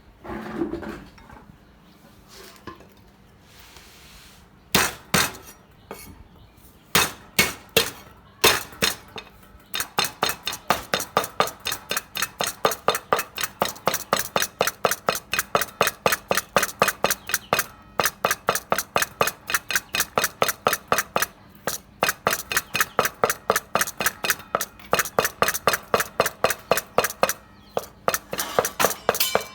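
Knife chopping on a cutting board: a few separate strikes, then a steady fast rhythm of about three chops a second from about ten seconds in.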